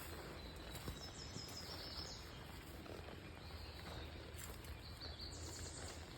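Quiet outdoor ambience: faint high bird chirps over a steady low rumble, with a couple of soft thumps about one and two seconds in.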